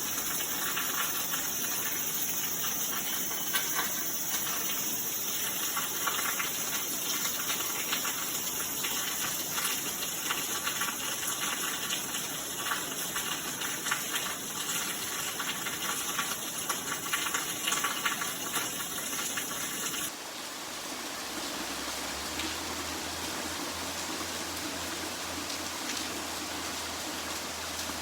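Heavy typhoon downpour: rain pouring hard with dense crackling splashes and gushing water. About 20 s in it cuts abruptly to a smoother, slightly softer steady rain hiss.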